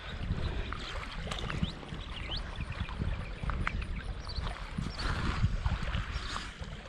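Wind buffeting the microphone, a low uneven rumble, with scattered small clicks and crackles over it.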